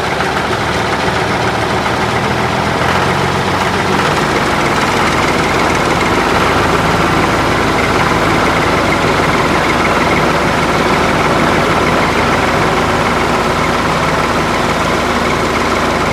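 Tractor engine idling steadily, an even running note that holds without change.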